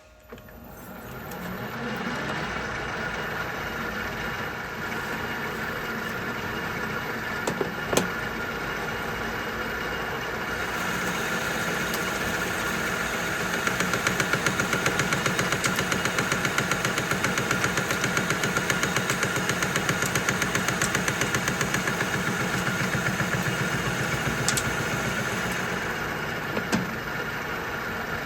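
Metal lathe starting up and running, taking a boring cut in steel. The sound brightens about ten seconds in, and a fast, even pulsing runs through its middle part.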